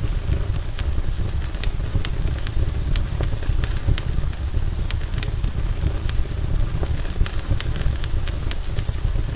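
Campfire burning: a steady low rumble with frequent, irregular sharp crackles and pops of burning wood.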